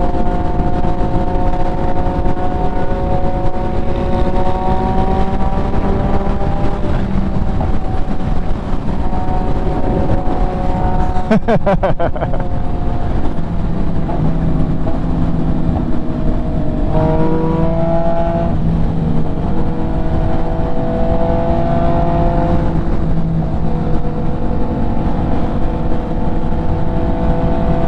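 MV Agusta F3's inline-three engine running at steady cruising speed through an SC-Project exhaust, its pitch drifting slowly with a quick throttle change about two-thirds of the way through, under heavy wind rush. A brief run of rapid pops or clicks comes near the middle.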